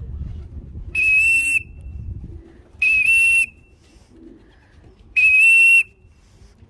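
A whistle blown in three short, even blasts of one steady high note, about two seconds apart: a pigeon fancier whistling to call returning racing pigeons down into the loft.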